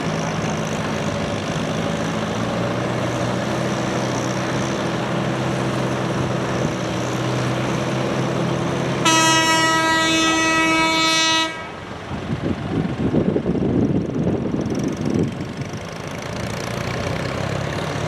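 Antique pulling tractor's engine running with a steady drone. About nine seconds in, a loud horn blast sounds on one steady pitch for about two and a half seconds and cuts off suddenly. Irregular crackling follows for a few seconds.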